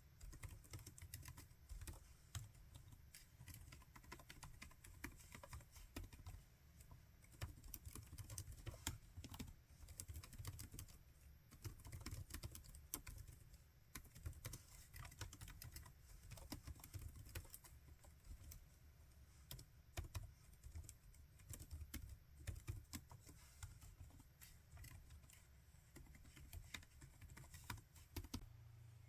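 Typing on a laptop keyboard: a fast, irregular run of soft key clicks that stops just before the end.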